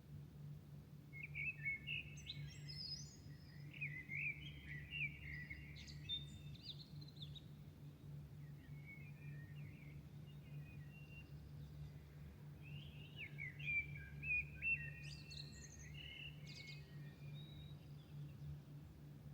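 A songbird singing two long phrases of quick, varied warbling notes, about a second in and again past the middle, with fainter twitters between, over a steady low hum.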